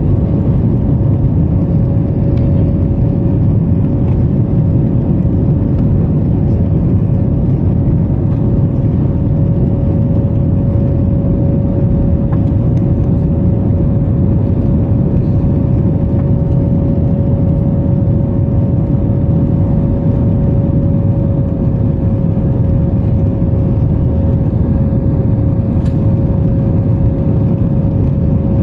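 Airliner jet engines heard from inside the cabin during takeoff and climb: a loud, steady rumble with a constant whine over it.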